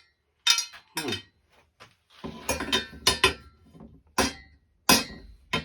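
Metal parts of a dismantled ceiling fan clinking and knocking together as they are handled: a series of about seven sharp metallic clinks, some ringing briefly, with handling and scraping between them.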